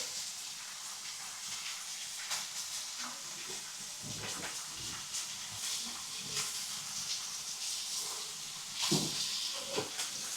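Meat sizzling on a hot marble slab over a wood fire: a steady hiss with scattered crackles and pops.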